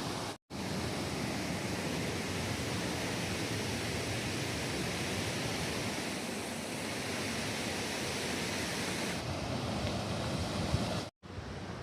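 Tuolumne Falls on the Tuolumne River: a powerful waterfall's steady rushing water noise, cut off briefly twice, once just after the start and once near the end.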